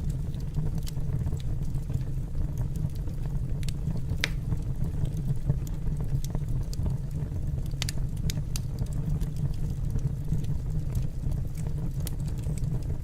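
Wood fire burning in a fireplace: a steady low rumble with scattered sharp crackles and pops, the loudest a little after four seconds and a few around eight seconds in.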